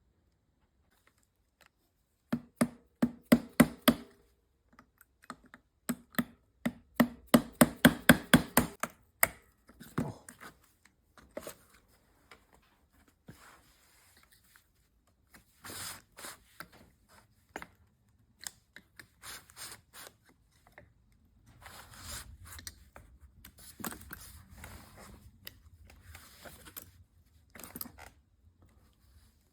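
Hand tools working on metal: two bursts of quick, sharp taps, several a second with a slight ring, then scattered clicks and handling noise.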